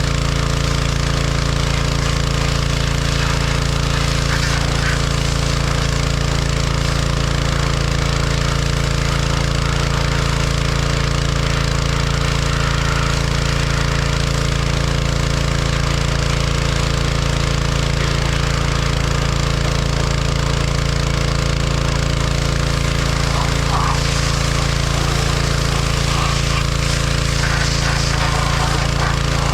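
John Deere 1025R compact tractor's three-cylinder diesel engine running steadily at a constant speed, with a few faint knocks near the end.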